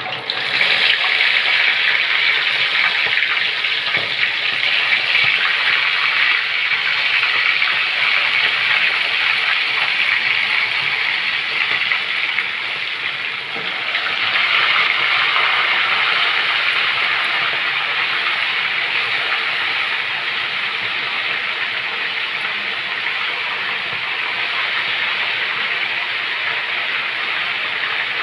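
Marinated chicken pieces deep-frying in hot oil in a kadai: a loud, steady sizzle that starts suddenly as the first piece goes in, and swells again about fourteen seconds in as more pieces are added.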